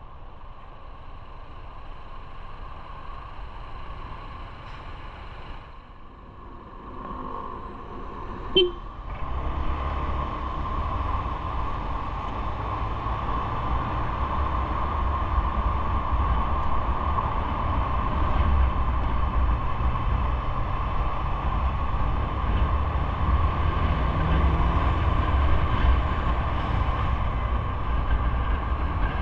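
Steady running noise of a moving vehicle, with a low rumble that grows louder from about nine seconds in. A short, sharp beep-like sound comes just before the rumble rises.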